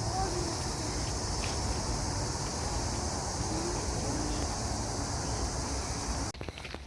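A steady high-pitched chorus of insects buzzing over a low outdoor rumble. It cuts off suddenly near the end.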